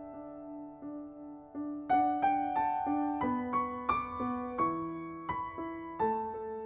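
Background music: soft piano playing slow, sustained notes, with a quicker run of notes about two seconds in.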